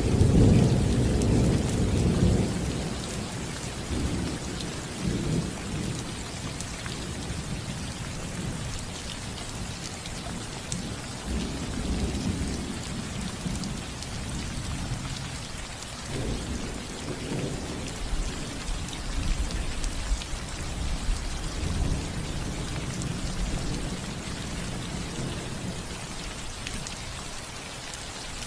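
Steady rain falling on a house roof, with low rolling thunder rumbling underneath, loudest in the first couple of seconds and returning several times.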